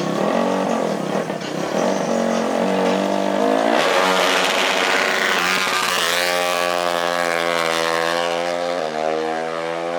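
Off-road racing engine revving hard, its pitch climbing and stepping between gears, with a loud noisy rush about four seconds in, then held at a high, steady pitch.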